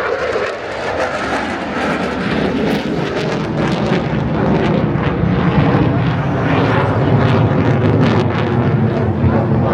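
F-16 fighter jet's single turbofan engine roaring as it flies past. The noise builds over the first couple of seconds and then stays loud.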